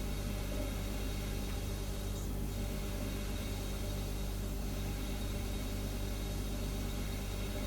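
Refrigerator humming steadily: a low, constant hum with a faint hiss over it.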